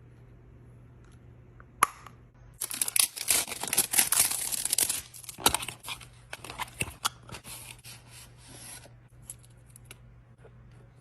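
Makeup packaging or products being handled: a sharp click, then a couple of seconds of dense crinkling, tearing rustle that breaks up into scattered scratches and small clicks and then stops.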